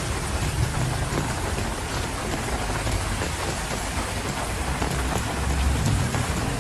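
Heavy rain falling steadily: a dense hiss flecked with countless small drop ticks. Under it runs a low rumble that swells about five seconds in.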